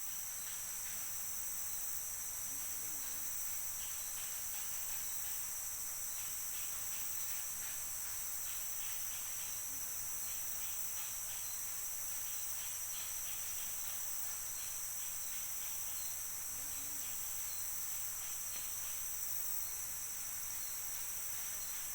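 Steady, high-pitched chorus of tropical forest insects buzzing without a break. Short bursts of rapid ticking come every second or so.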